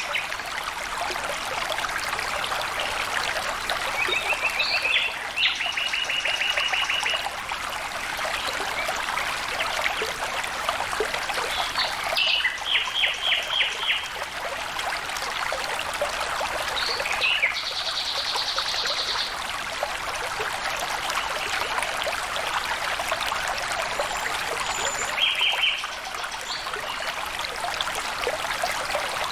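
Small stream of water trickling and splashing steadily, with a few birds calling over it in short, rapid trills of repeated notes four or five times.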